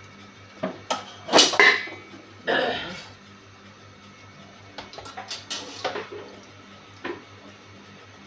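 Cookware and utensils clattering: a series of irregular knocks and clinks, loudest about a second and a half in, with a longer scraping rustle just after.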